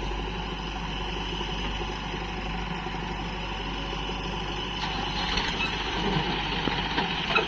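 Heavy diesel machine engine running steadily. It grows busier and a little louder in the last couple of seconds, with a sharp knock near the end.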